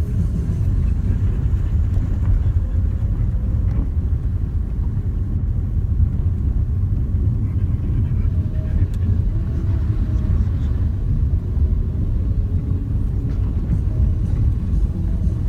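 Renault Duster 4x4 on the move: a steady low rumble of engine and tyres.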